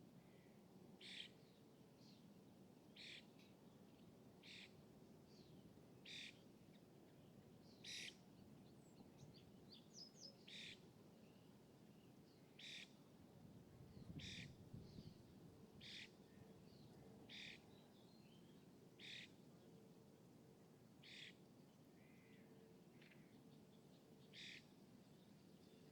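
Faint outdoor ambience: a bird gives a short, high call over and over, about every one and a half to two seconds, with a few softer chirps between, over a faint low background rumble.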